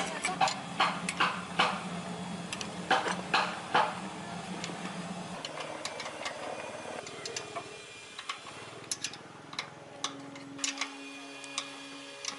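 Irregular sharp clicks and taps, several a second at first and sparser later, over a steady low hum that stops about five seconds in; another steady hum starts near the end.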